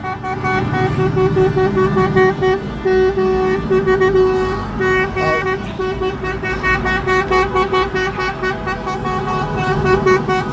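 Horns of a protest convoy of trucks and other vehicles honking in short, repeated blasts, over the low rumble of heavy engines passing.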